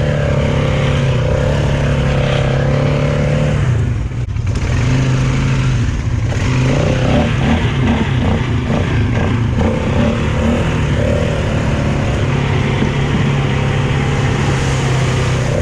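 Polaris 570 ATV's single-cylinder engine running under throttle, easing off briefly about four seconds in, then pulsing unevenly for a few seconds before settling back into a steady pull.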